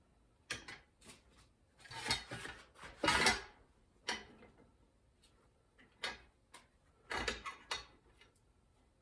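Irregular metallic clanks and short scrapes of sheet metal and hand tools being worked and handled, with a longer, louder scrape about three seconds in and a quick cluster of knocks near the end.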